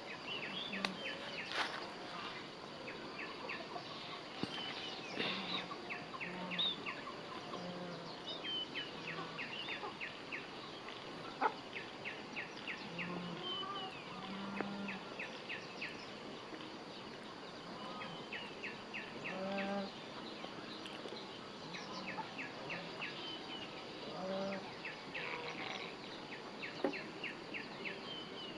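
Countryside ambience with many runs of short, rapid high chirps, plus a few short low calls here and there.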